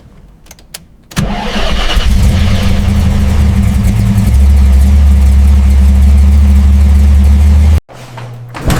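A few sharp clicks, then a car engine starts suddenly and runs loudly with a steady low rumble that grows heavier about four seconds in, cutting off abruptly near the end.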